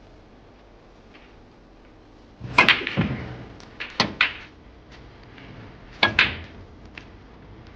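A few sharp knocks and clicks with short ringing tails, in three clusters: a first group about two and a half seconds in, a quick double about four seconds in, and another pair about six seconds in.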